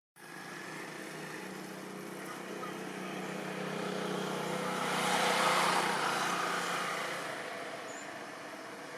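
A motor vehicle passing by: a steady engine hum with tyre and road noise that grows louder to a peak about halfway through, then fades away.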